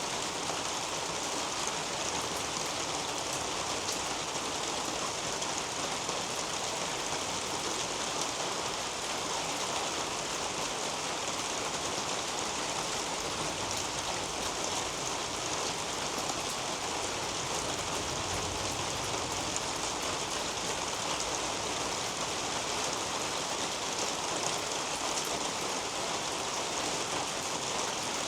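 Steady rain falling on a leafy garden canopy: an even hiss of many fine drops that holds at one level throughout.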